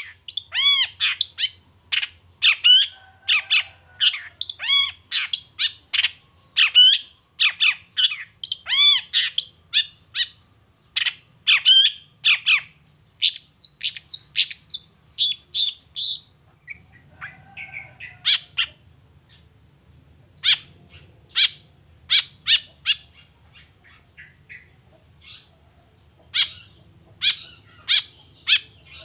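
Long-tailed shrike (cendet) singing a fast run of short, sharp repeated notes, several a second, with a quieter, sparser stretch about two-thirds of the way through before the notes come thick again near the end.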